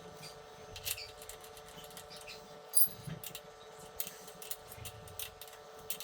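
Scattered light clicks and taps over a faint, steady hum.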